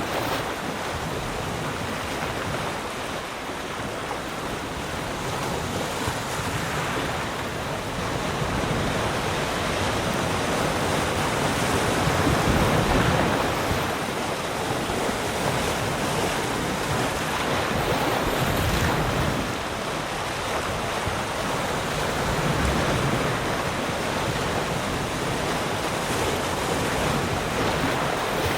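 Sea surf: waves breaking and washing on the shore in a continuous rush that swells and ebbs every few seconds.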